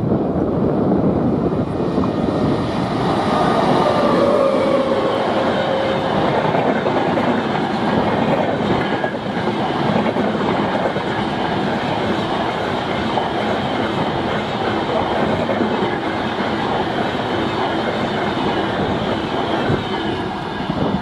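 WAP-7 electric locomotive and its express coaches passing at speed on the rails, a steady loud rush of wheels on track. A whine falls in pitch between about two and six seconds in as the locomotive goes by. The noise drops near the end as the last coach passes.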